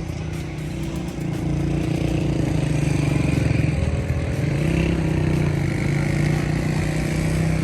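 A vehicle running steadily, with engine and road noise, getting somewhat louder about a second in.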